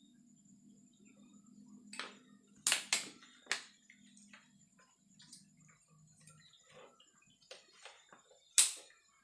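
Sharp knocks and clatter of hard objects being handled, loudest about three seconds in and again near the end, over a faint low hum in the first half.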